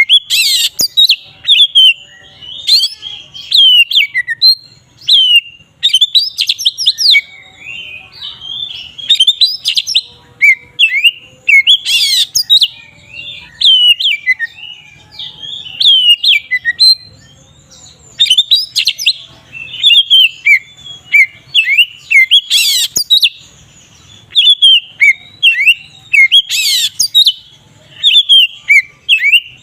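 Oriental magpie-robin singing a loud, varied song of quick whistled phrases that glide up and down, broken every few seconds by a short, rough, louder note.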